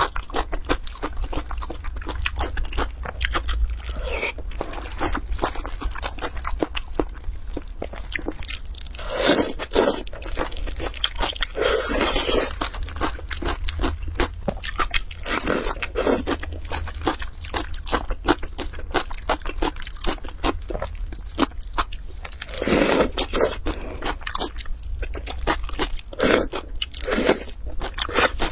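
Close-miked eating sounds: crunchy chewing and biting mixed with wet, sticky squishing and plastic crinkling as gloved hands work food in a bowl of chili sauce. A dense crackle of small clicks runs throughout, with several louder bursts, over a low steady hum.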